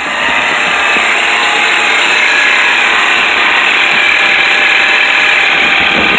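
A 1988 Porsche 944's inline-four engine running, heard close up at the belt-driven accessories beside the alternator: a loud, steady mechanical noise that grows louder in the first half second as the microphone comes close. The owner notices it as a little noise he means to check out later.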